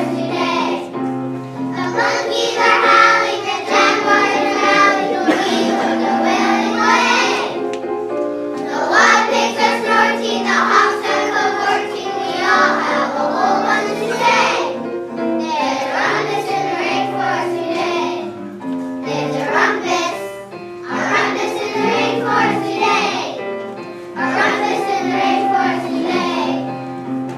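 A group of children singing a song together over an instrumental accompaniment, in phrases a few seconds long with short breaks between them.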